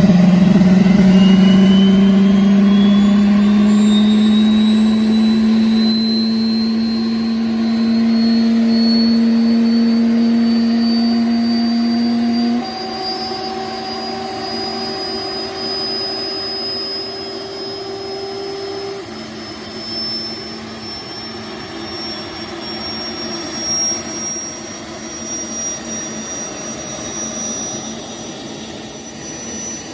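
Boeing T50 gas turbine engine running just after start-up, its high whine climbing slowly and steadily in pitch as it spools up. A loud lower hum under it cuts off suddenly about twelve seconds in, leaving the rising whine quieter.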